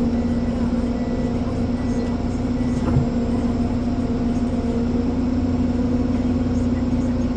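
Ponsse Elephant forwarder's diesel engine and hydraulics running steadily at constant revs, with a single knock about three seconds in.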